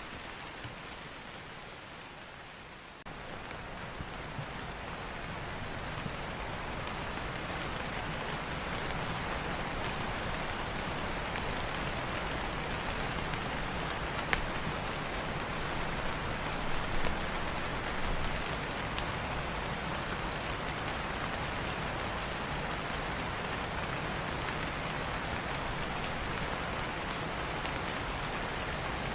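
Steady rain falling on dense tropical rainforest foliage. It is lighter for the first few seconds and heavier from about three seconds in, with a few faint, brief high chirps in the distance.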